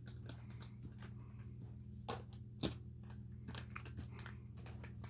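Plastic fidget spinners being handled and sorted: a run of light clicks and knocks, with two louder clacks a little over two seconds in, over a steady low hum.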